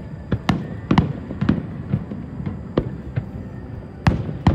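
Aerial firework shells bursting in an irregular string of sharp bangs, about ten of them, with the loudest near the end.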